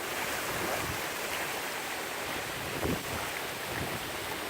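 Steady rush of wind outdoors, with wind buffeting the microphone: the lingering wind after a hurricane has passed.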